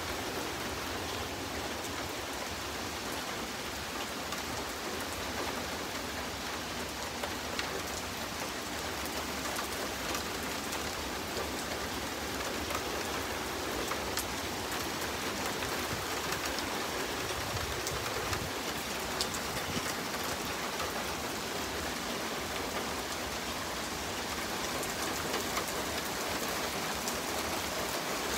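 Steady rain falling, an even hiss with the patter of single drops striking nearby surfaces.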